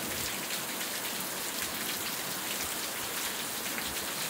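Heavy rain pouring down, a steady dense hiss of drops striking the wet ground and puddles.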